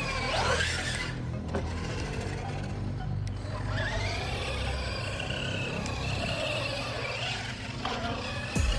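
Electric motor of an RC truck whining, rising and falling in pitch as the throttle is worked, over background music.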